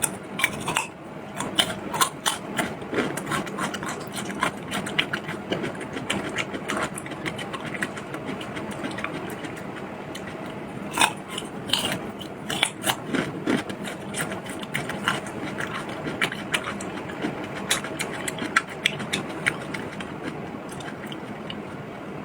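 Close-miked eating sounds: irregular wet clicks and smacks of chewing, busiest in the first few seconds and again about halfway through, over a steady low background hum.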